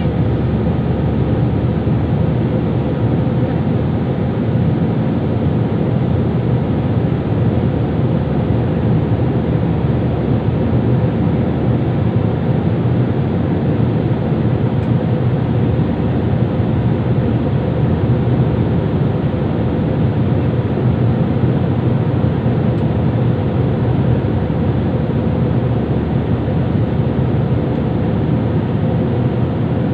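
Steady airliner cabin noise heard from inside the passenger cabin: an even, low rumble of the engines and rushing air that does not change.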